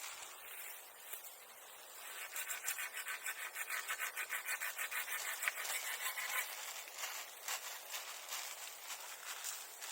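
Hand saw cutting through wood in quick, even back-and-forth strokes. The strokes begin about two seconds in and fade to lighter scraping about seven seconds in.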